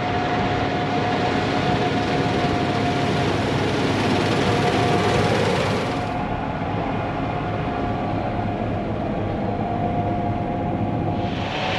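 Gleaner S78 combine harvester with its 9.8-litre AGCO diesel running steadily while cutting wheat with a MacDon draper head, with a steady mechanical whine over the noise. The high hiss of the machine drops away about six seconds in and returns near the end.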